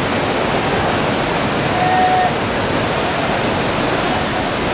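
Steady rush of whitewater in a river rapid that drops in two steps.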